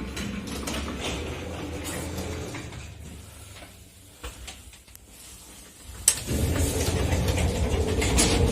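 Elevator hoist machinery with an AS-62 two-speed motor: a running sound fades to a quieter stretch with a few clicks. About six seconds in a sharp click is followed by the motor starting and running with a loud, steady low hum.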